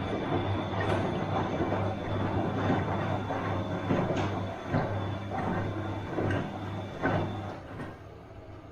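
Bosch washing machine running, its motor humming as the drum turns, with churning and a few knocks from the load. The drum motor stops near the end.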